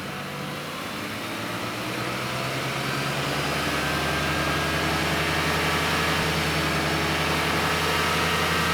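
A vehicle engine running steadily as a low, even hum that slowly grows louder over the first few seconds.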